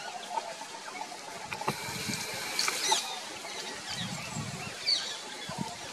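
Wild birds calling, with many short high chirps and whistles overlapping, and a few low soft thuds in the second half.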